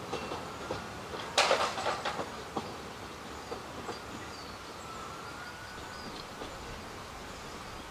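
Narrow-gauge train carriages rolling away over the rail joints, with scattered clicks and a louder burst of clatter about a second and a half in. The sound then fades to a steady low outdoor background as the train recedes.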